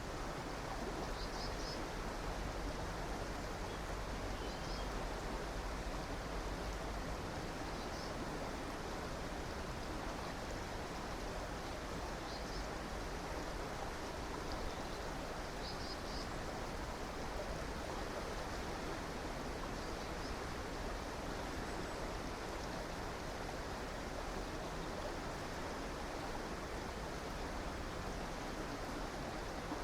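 River water rushing steadily, with faint bird chirps every few seconds.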